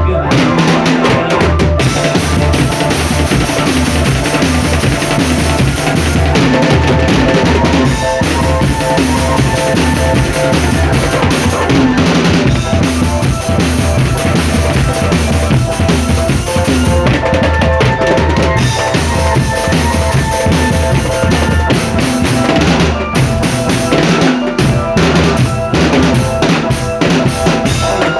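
Marching drum band playing: bass drums pound out a steady beat under snare drums and rimshots, with held melody notes above.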